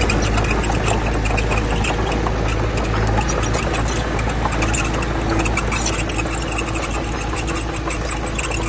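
Heavy diesel engine of an earthmoving machine running steadily at low revs, with scattered small clicks and rattles. A faint steady tone joins about halfway through.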